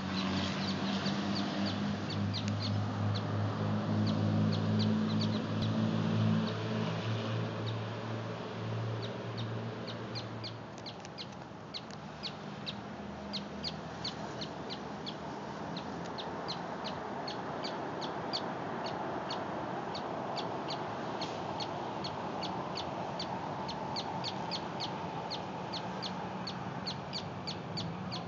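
Small songbird chirping over and over, short high notes about three a second. A steady low hum runs under it for the first ten seconds or so, then stops.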